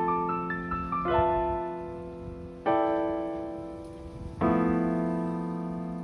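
Background piano music: a quick run of notes, then three sustained chords struck about a second apart, each ringing and fading.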